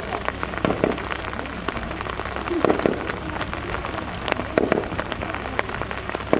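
Rain falling steadily, many separate drops ticking on a nearby surface, with a few brief faint voices in the background.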